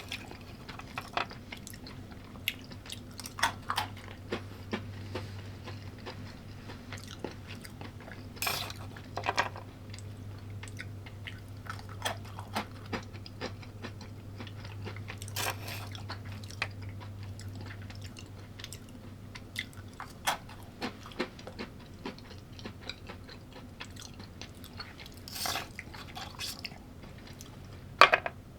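A person chewing and biting food, with scattered short crunches and clicks. A low steady hum sits underneath and fades out about two-thirds of the way through.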